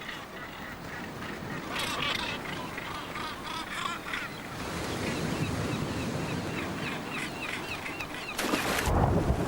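A crowd of seabirds calling harshly over each other as they squabble for fish discards, with runs of quick repeated calls, over a steady rush of sea and wind. Near the end a loud burst of rushing noise briefly drowns the birds.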